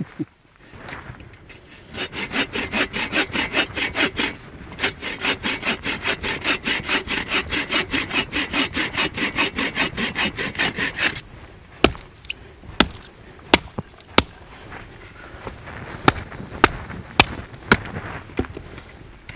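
Hand saw cutting through a fallen branch in quick, even back-and-forth strokes, about three or four a second, with a short pause partway. After about eleven seconds the sawing stops and a series of sharp, separate cracks follows, roughly one a second.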